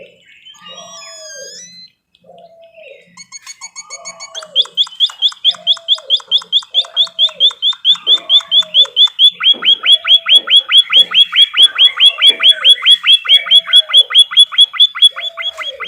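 Recorded birdsong: a fast, even run of high chirps, about five a second, begins about three seconds in and quickly grows loud. Under it, a lower hooked call repeats about once a second.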